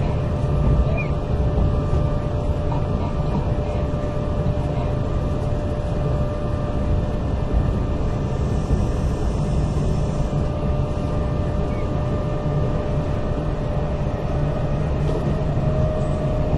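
Kintetsu 8000 series electric train running at speed, heard from inside the car: a steady rumble of wheels on rail, with a faint steady whine above it.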